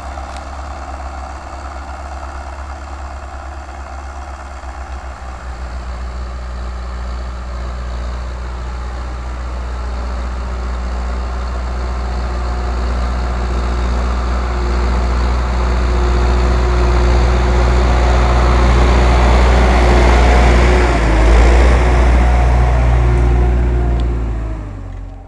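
Belarus MTZ tractor's four-cylinder diesel engine running steadily under load while pulling a plough, growing louder as it comes closer, then cutting off sharply near the end.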